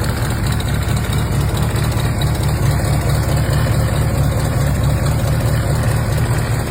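Small-block 350 V8 of a 1969 Chevrolet Camaro idling with a steady, even low rumble.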